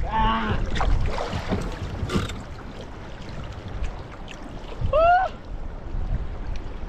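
Wind buffeting the microphone and water splashing against a Laser sailing dinghy's hull as it sails in strong, gusty wind, with a brief rising pitched sound about five seconds in.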